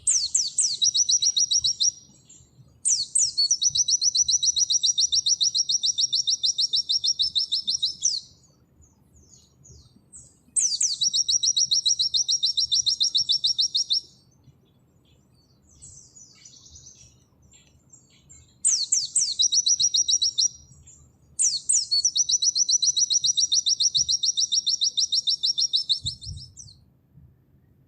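White-eye (pleci) singing its long, rapid 'nembak' trills: five bouts of fast, evenly repeated high notes, each opened by a few quick falling whistles, the longest running about five seconds.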